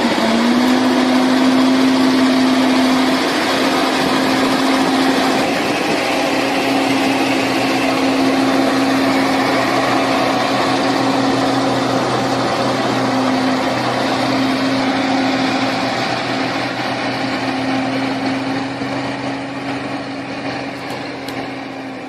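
Heavy vehicle engine revving up, then held at one steady high note under load.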